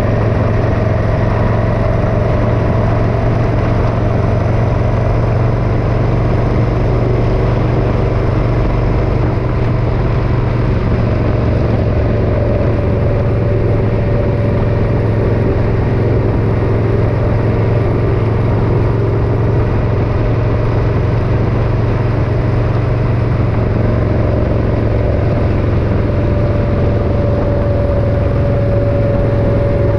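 Motorcycle engine running steadily while riding at an even speed: a constant low drone with a faint steady higher tone over it.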